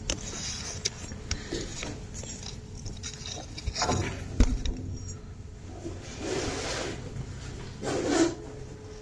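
Handling noises: rubbing and scraping with scattered knocks, and one heavy thump about four and a half seconds in.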